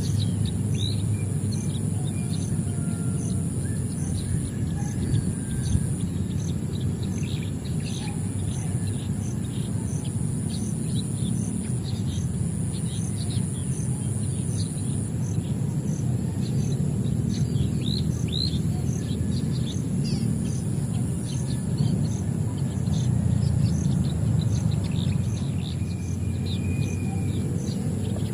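Small birds chirping, with many short high chirps scattered throughout, over a steady low rumble and a thin high buzz that pulses about twice a second.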